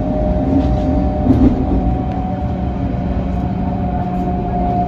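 Electric passenger train running, heard from inside the carriage: a steady rumble with a steady motor whine.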